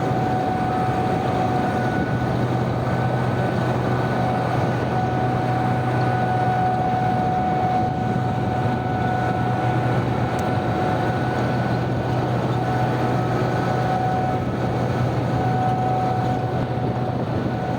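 Heavy diesel mining machinery running steadily: a constant low engine hum with a thin, steady whine above it.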